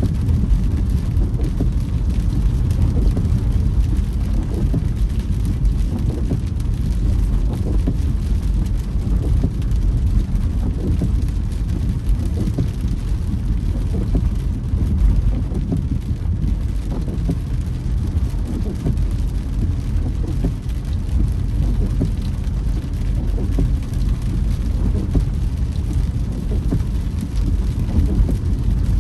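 Steady low rumble of a car driving through rain, heard from inside the car, with faint irregular patter above it.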